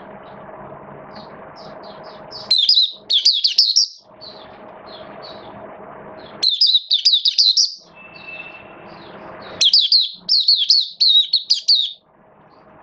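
White-eye (mata puteh) singing: three bursts of fast, high twittering song, each a second or two long, with softer single chirps between them. A steady low hum and hiss fill the gaps between the bursts.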